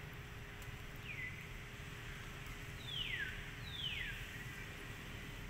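A bird calling three times with high, clear whistles, each sliding quickly downward, about a second in and again twice near 3 and 4 seconds, over steady outdoor background noise.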